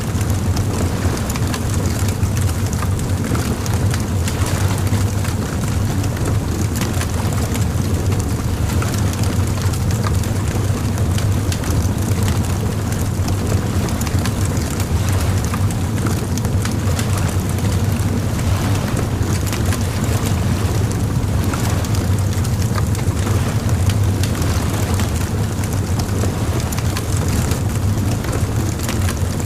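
Bonfire crackling steadily: dense small pops and snaps over a constant low rumble.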